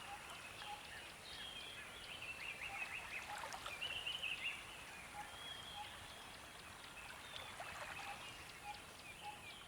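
Faint recorded nature ambience: small birds chirping and calling, several at once and busiest around the middle, over a low steady hiss.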